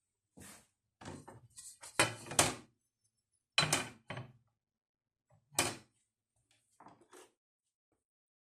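A series of irregular knocks and clacks, hard objects striking or being set down, loudest about two and three and a half seconds in, with quiet gaps between.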